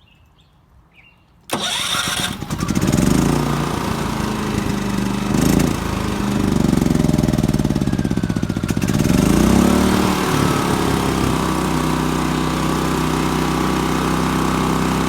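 Champion 3400 watt dual fuel inverter generator's engine started warm without the choke, catching about a second and a half in. Its speed surges up and down for several seconds, then settles into steady running.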